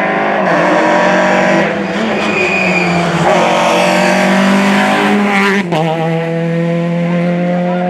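Rally car engine running hard at high revs on a special stage, changing gear several times so that its note steps in pitch at each change.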